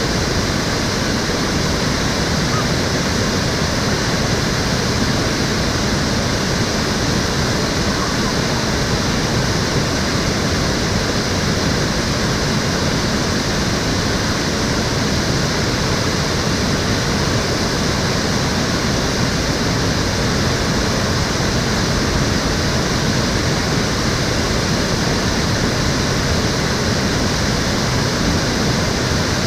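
Water of Cheonggyecheon, Seoul's restored urban stream, flowing and splashing in a steady, even rush.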